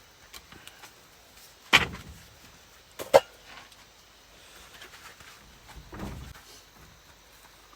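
A few sharp knocks of things being handled and set down: one loud knock about two seconds in, two more in quick succession about three seconds in, and a duller thud around six seconds.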